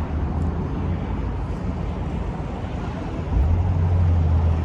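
Low, steady rumble of car engines and traffic, swelling louder about three seconds in.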